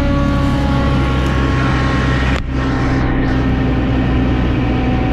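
Diesel engine of a mulching skid steer running steadily, with a brief dip in the sound about halfway through.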